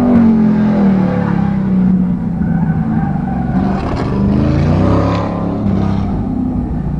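Race car engine driven hard around a course: its note drops as it lifts off, then climbs again about four seconds in as it accelerates, before levelling off.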